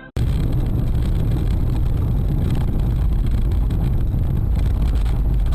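A car driving, with steady engine and road noise and no impact.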